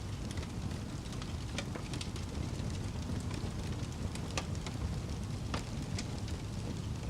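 Fire crackling: a steady low rumble of burning with irregular sharp crackles and pops, a few each second.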